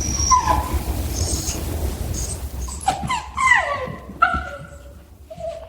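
A dog whining in a few short whimpers that slide down in pitch.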